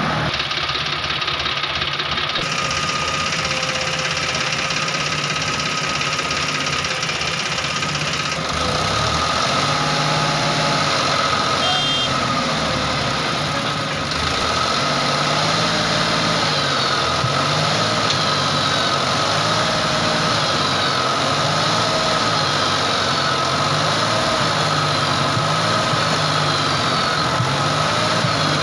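JCB 3DX backhoe loader's diesel engine running steadily. From about halfway in, its speed rises and falls every couple of seconds as it works.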